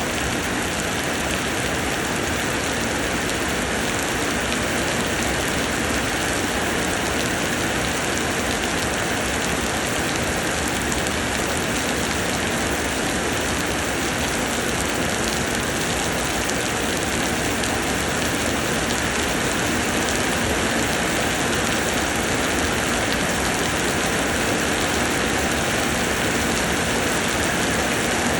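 Heavy summer rain falling steadily, an even hiss of drops with no let-up.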